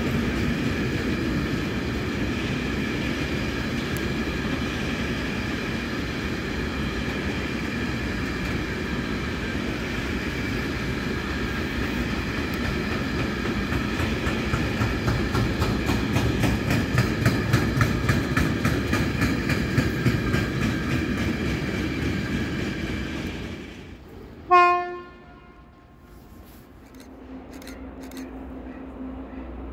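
Freight train of covered wagons rolling past close by, wheels clicking steadily over the rail joints, until the last wagon clears about 24 seconds in. Then comes one short, loud locomotive horn blast, followed by a faint steady hum.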